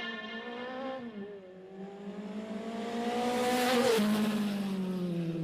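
Motorcycle engine whose pitch climbs as it grows louder, then drops sharply about four seconds in, like a bike speeding past. The sound cuts off abruptly at the end.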